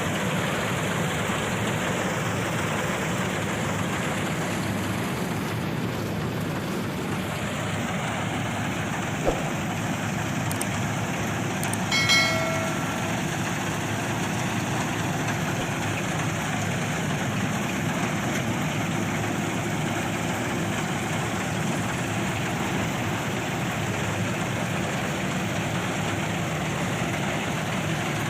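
Small electric motors of a homemade RC model combine harvester running steadily as it works through crop. A single click comes about nine seconds in, and a short pitched tone about twelve seconds in.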